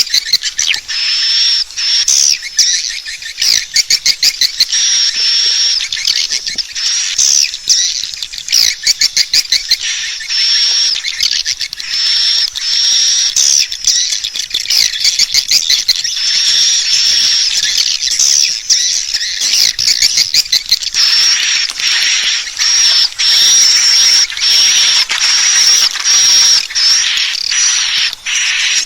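Swiftlets calling: a dense, unbroken chatter of high twittering chirps, with quick runs of rapid clicks mixed in. The chatter grows thicker near the end. This is the kind of swiftlet call sound played to lure swiftlets into a nesting house to roost.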